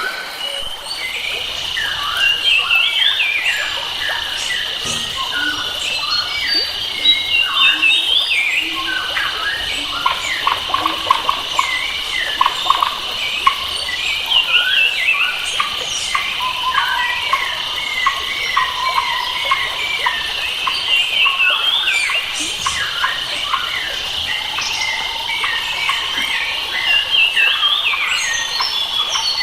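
Wild forest birds singing and chirping, many short varied calls overlapping, over a steady high insect trill.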